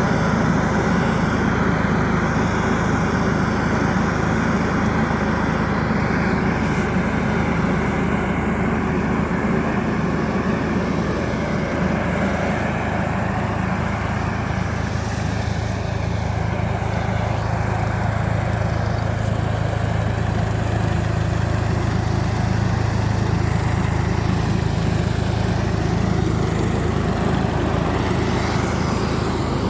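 Hattat B3065 tractor's engine running steadily while working a sprayer in an orchard: a low, even drone with a rushing hiss over it.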